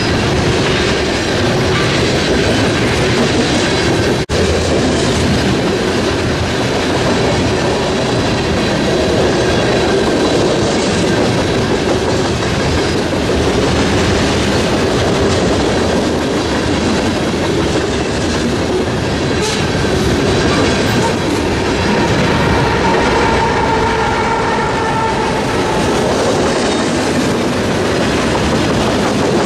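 Freight cars of a long mixed freight train rolling past close by: a steady rumble with the clickety-clack of wheels over rail joints. A faint wheel squeal comes in for a few seconds past the two-thirds mark.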